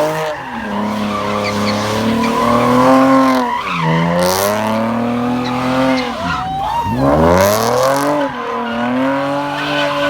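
Car engine revving hard while the car spins its tires in a burnout, the pitch rising and falling several times with tire squeal.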